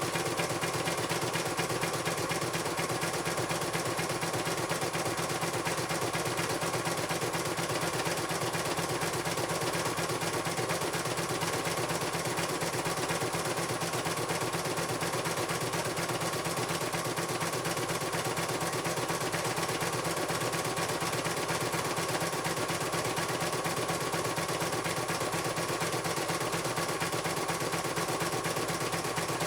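CNY computerised embroidery machine stitching: a fast, even clatter of needle strokes over a steady motor hum, unbroken throughout.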